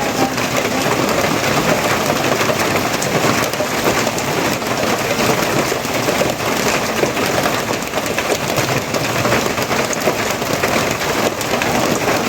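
Steady heavy rain falling and pattering on a surface, an even dense hiss with no pause.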